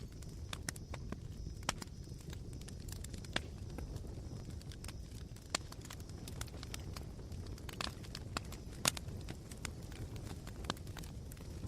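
Campfire embers crackling: irregular sharp pops and snaps, a few louder than the rest, over a steady low rumble.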